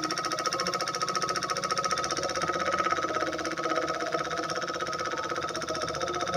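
Miniature diesel engine running steadily at an even speed, with a fast, regular firing rhythm.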